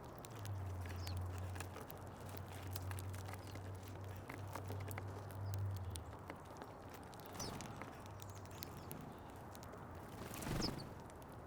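Small birds feeding at a backyard seed feeder: many light taps and clicks of pecking and hopping, with a couple of brief high chirps. A low hum runs through the first half, and a short louder rustle comes near the end.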